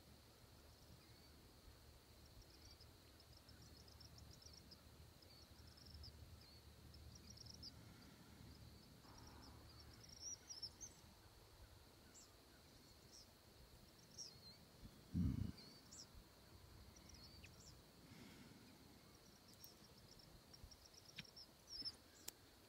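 Near silence with faint distant birdsong: short high chirps and trills scattered throughout, over a steady faint high whine. A single low thump about fifteen seconds in.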